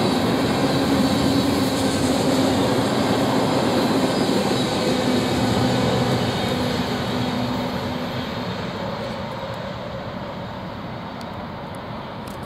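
Freight train's covered hopper cars rolling past on the rails, the wheels making a steady rumbling hum. About halfway through, the last car goes by and the sound fades steadily as the train moves away.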